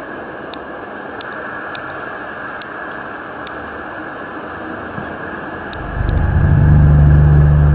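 Steady background hiss, then about six seconds in a loud, low droning groan made of a few deep steady tones swells up and holds: one of the unexplained rumbling or groaning 'sky sounds' reported around the world.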